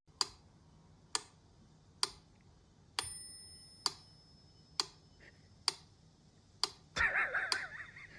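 Clock ticking, one sharp tick a little under every second. A bell-like chime rings out with the tick about three seconds in and fades away slowly. Near the end a brief wavering voice-like sound is heard over the ticks.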